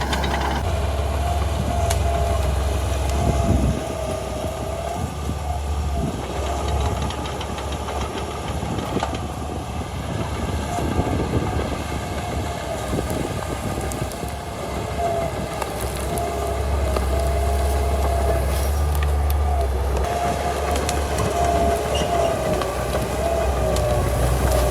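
Crawler bulldozer working: a steady, deep engine drone with a wavering high whine over it, and scattered clanks and cracks. The sound eases off through the middle and builds again after about sixteen seconds.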